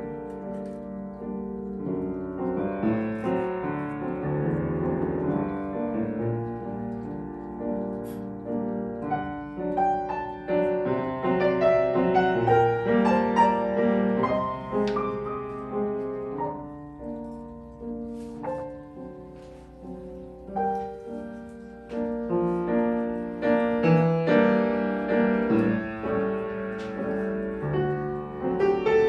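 Solo piano playing a gentle, melodic piece with sustained chords, swelling louder about halfway through, easing off, then building again near the end.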